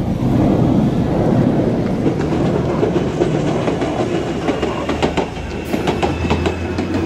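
Electric commuter train passing close: a steady rumble of wheels on rail, joined about halfway through by sharp clicks of the wheels over rail joints and a faint high whine.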